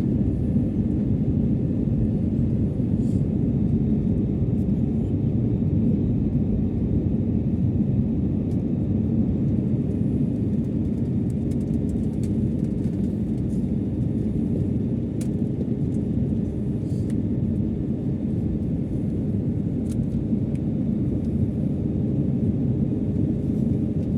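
Steady low drone inside the cabin of a jet airliner: engine and airflow noise, even and unbroken.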